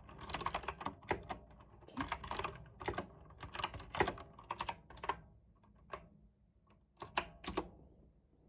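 Typing on a mechanical keyboard: quick runs of sharp key clicks, thinning to a few separate keystrokes and a short final run.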